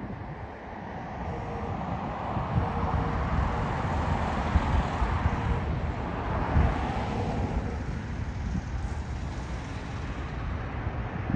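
Jet airliner engine noise swelling and then easing as the plane passes on its landing. Gusty wind buffets the microphone as a low rumble throughout.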